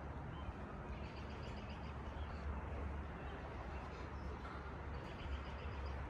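Birds chirping faintly in the trees, a few short calls now and then, over a steady low rumble.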